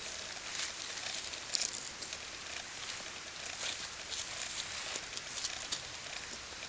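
Small rocks clicking and scuffing as a toddler handles and stacks them: scattered light, irregular knocks over a steady hiss.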